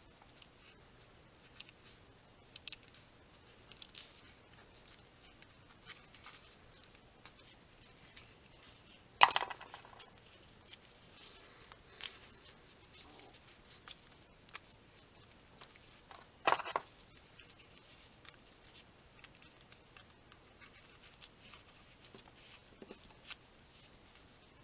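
Faint rustling and scratchy handling noises from polyester fiber fill being pushed into a headphone ear pad, with scattered small clicks and two louder knocks, about nine and sixteen seconds in.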